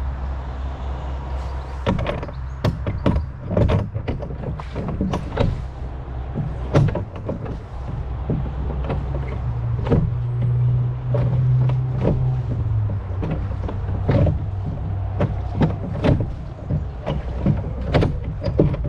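A rowboat being rowed: irregular knocks and creaks of the oars, with water splashing, over a steady low rumble of wind on the microphone.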